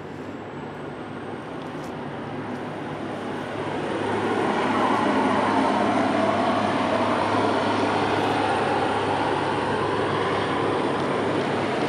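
Approaching train running on the line, a steady rumble that swells louder about four seconds in and then holds.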